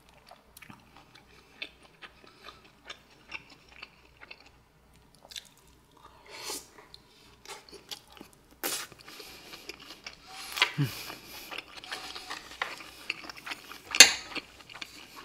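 Close-miked chewing of a mouthful of hamburger steak and shredded lettuce, with wet mouth sounds and light crunching. A few sharp clicks of utensils or lips come through, the loudest near the end.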